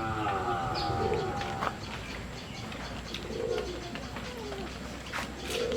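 Pigeons cooing, soft low coos every couple of seconds. A long, wavering pitched voice-like sound fills the first second and a half, and faint clicks come and go.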